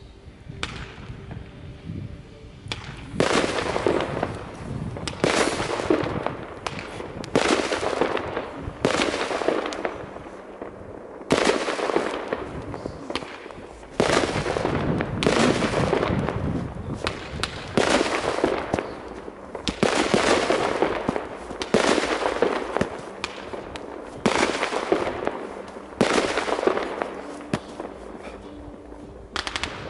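A fireworks battery (compound cake) firing a long run of shots, roughly one every one and a half to two seconds. Each shot starts with a sharp bang and fades away over a second or so. The shots begin about three seconds in.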